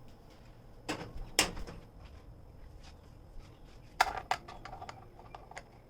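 A few light knocks and clinks of kitchenware being handled. Two come about a second in, and two more about four seconds in, one with a short ring.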